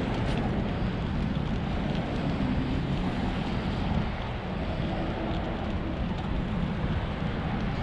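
Steady rushing wind noise buffeting the microphone while cycling, with faint scattered ticks over it.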